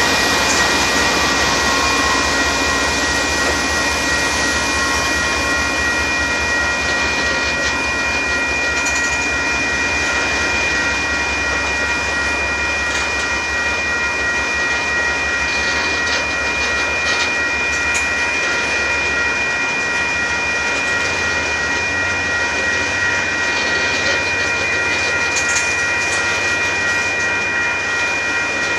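Freight train of gravel cars rolling past with steady wheel-on-rail noise and faint clicking over the rail joints, and a steady high-pitched ringing tone that holds throughout.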